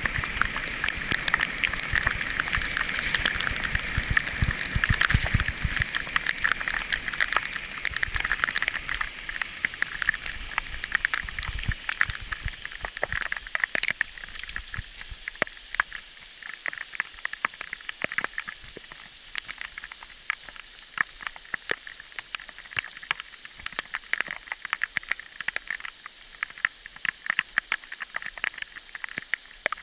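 Bicycle rolling over a rough unpaved track, with irregular clicks and rattles from the tyres and bike throughout. A steady hiss is heard for about the first twelve seconds, then fades.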